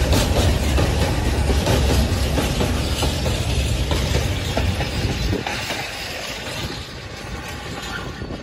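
Container flat wagons of a freight train rolling past, wheels clattering over the rail joints. The heavy rumble drops off sharply about five seconds in as the last wagon goes by and the train moves away.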